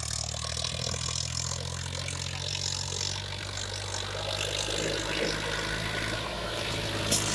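Swaraj 963 FE tractor's three-cylinder diesel engine running steadily at a held hand-throttle setting while hauling a heavily loaded trolley.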